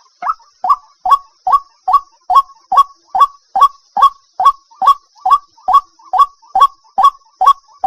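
White-breasted waterhen calling at night: a steady run of short, loud notes repeated about two and a half times a second.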